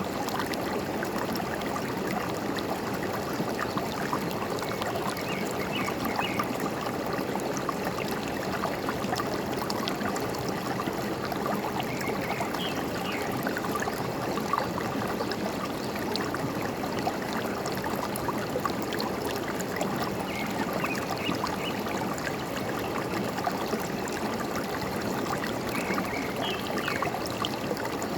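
Forest stream flowing and gurgling steadily, with a few brief, faint bird chirps now and then.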